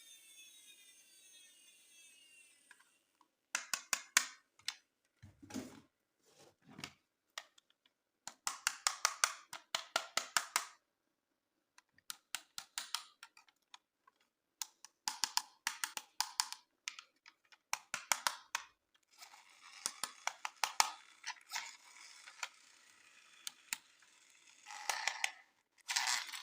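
Toy packaging being handled up close: repeated bursts of rapid crisp clicking and crackling, each lasting a second or two, with short pauses between them.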